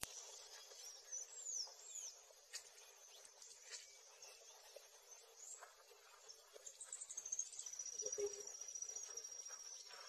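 Faint birdsong: a few quick, high sweeping chirps about a second in, then a long, thin, high trill through the later part.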